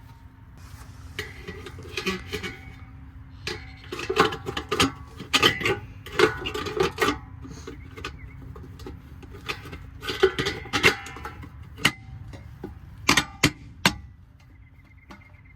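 Metal hubcap being fitted onto a truck wheel: a string of sharp metallic clinks and knocks in uneven clusters, which stop about a second before the end.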